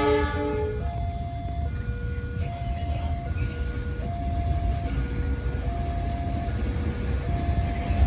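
Electronic two-tone warning alarm of a railway level crossing, alternating between a higher and a lower tone about every 0.8 seconds. It plays over a low rumble, with the last of a train horn fading out about a second in.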